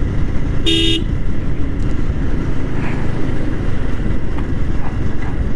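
Yamaha R15 V3 motorcycle riding at road speed: a steady low rumble of engine and road noise, with one short horn beep just under a second in.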